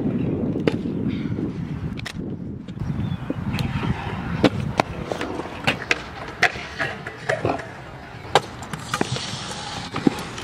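Pro scooter wheels rolling over skate park concrete, loudest in the first few seconds, broken by many sharp clacks of the scooter landing and striking.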